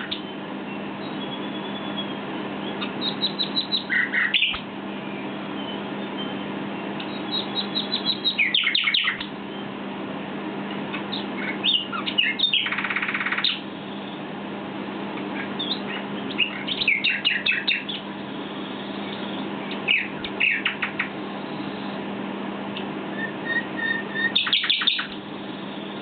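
Common nightingale singing in separate phrases of rapid notes and trills, a new phrase every few seconds with pauses between, over a steady low hum.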